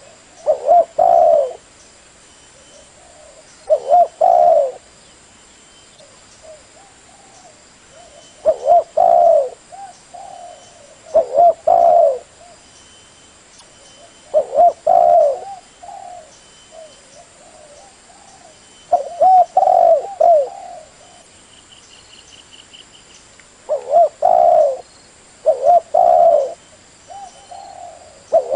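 Spotted dove cooing: short phrases of low, pitched coos, about nine of them, repeated every two to five seconds, with fainter coos in between.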